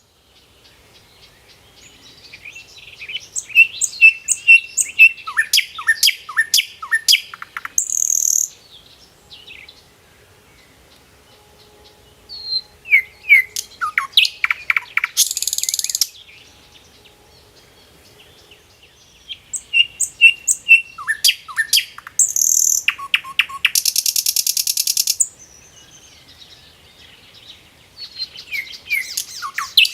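A songbird singing, phrase after phrase, with short quiet gaps between. Each phrase is a quick run of repeated high notes and downward-sliding whistles, ending in a harsh buzzy trill. The last phrase begins near the end.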